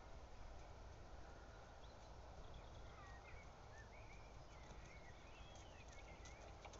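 Near silence: faint outdoor background with a scattering of short, high chirps from distant birds.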